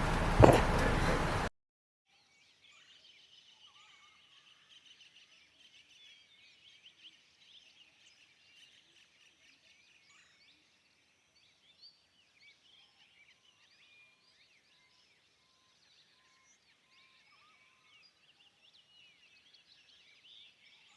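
Wind buffeting the microphone with a knock about half a second in, cut off abruptly after a second and a half. Then faint songbirds chirping, with many short calls overlapping, for the rest.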